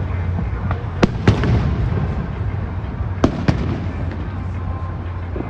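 Fireworks display: sharp bangs of aerial shells bursting, two pairs of them about a second and two seconds apart, over a continuous low rumble of further bursts and crackle.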